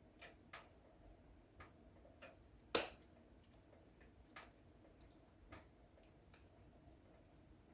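Wood fire in a fireplace crackling, with irregular sharp pops and snaps over a low steady hiss; one loud pop near the middle.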